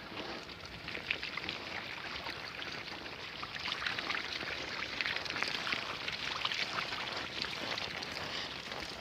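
Bicycle tyres rolling over a dirt trail, giving a steady crackling, crunching noise.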